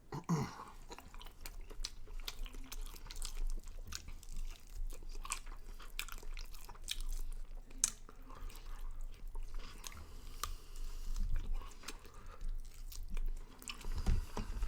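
A person chewing and biting into sauced chicken wings close to the microphone, with irregular wet clicks from the mouth throughout.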